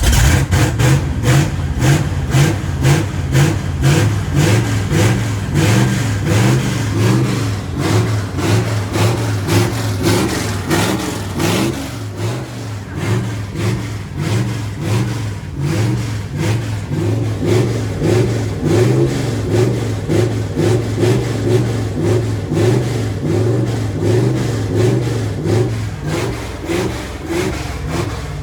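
1981 Dodge D150 pickup's V8 engine catching suddenly and running steadily with a regular pulsing beat, after an earlier failed attempt.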